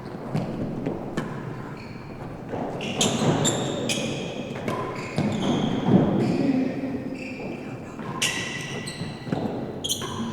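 A real tennis rally: sharp knocks of the solid ball off rackets, walls and floor, echoing in the enclosed court, with short high squeaks of players' shoes on the floor.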